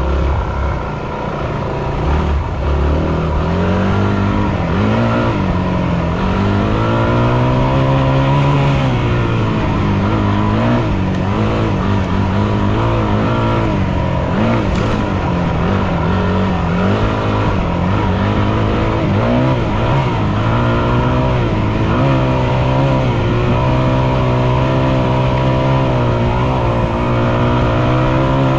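Yamaha WR250F's single-cylinder four-stroke engine being ridden hard, its pitch rising and falling again and again as the throttle is opened and closed through the gears.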